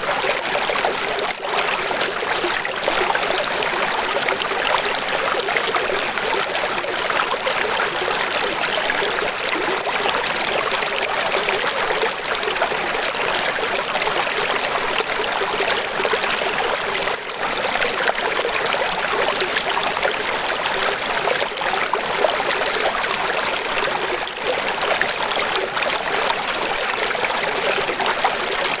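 Running water: a steady, even rush with little deep rumble and no separate splashes or calls standing out.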